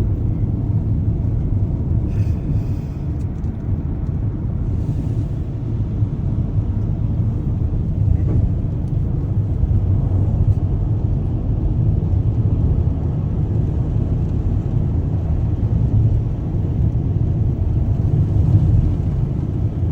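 Car being driven, a steady low rumble of engine and tyre noise with no breaks.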